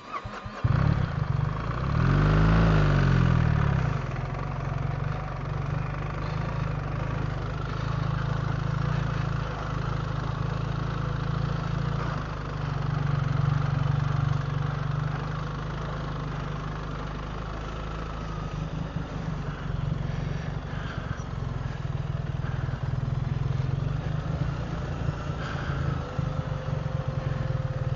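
BMW R 1300 GS Adventure's boxer-twin engine running as the motorcycle rides on. It comes in suddenly under a second in, with a surge of revs at about two to four seconds, then runs steadily.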